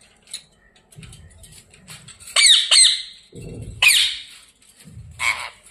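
Ringneck parakeet squawking harshly, with two quick shrill squawks about midway, a louder one a second later and a weaker one near the end, as the birds squabble.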